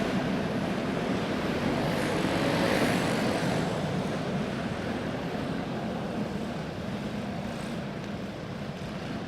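A pack of dirt-track racing karts running laps, their small single-cylinder four-stroke clone engines making a steady mixed drone that swells about three seconds in and then slowly fades as they move away.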